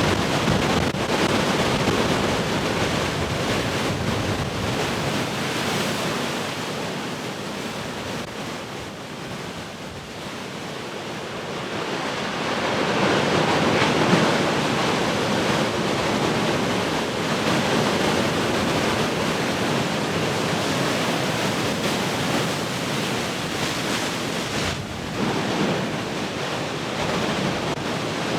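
Heavy ocean surf: waves breaking and washing continuously. The wash eases off about a third of the way in, then a big wave builds and crashes about halfway through, followed by a steady roar of broken water.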